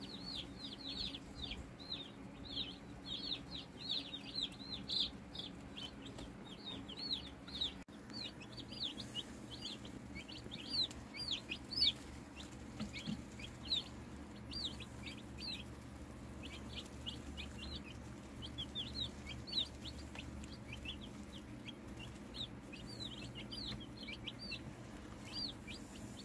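A brooder full of young Cornish Cross meat chicks peeping continuously: many short, high chirps, each falling in pitch, several a second.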